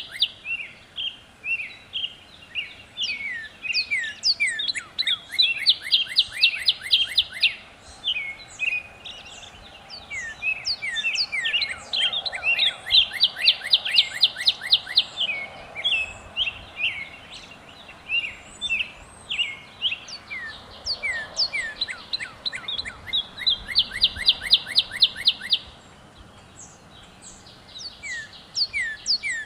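Northern cardinal singing: runs of slurred whistles that build into a fast, even trill, repeated three times, with scattered higher bird notes alongside.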